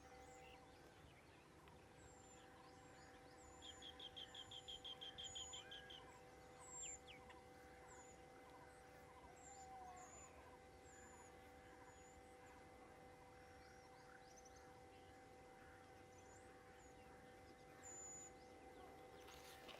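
Faint outdoor ambience of birds calling: short high chirps repeated throughout, with a rapid trill of about ten notes from roughly four to six seconds in. A steady two-tone hum runs underneath.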